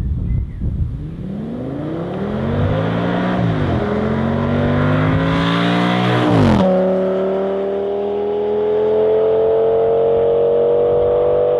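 Audi S8's 5.2-litre V10 with a custom exhaust accelerating hard toward and past: the engine note climbs, drops back at an upshift about three and a half seconds in, and climbs again. The pitch falls sharply as the car passes, then keeps rising as it pulls away.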